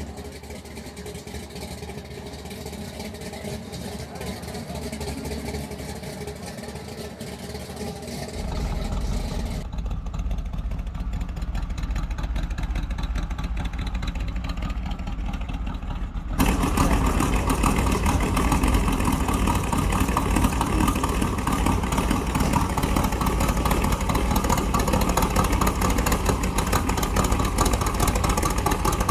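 Car engine running, with the sound getting louder in steps and jumping up suddenly about two-thirds of the way through.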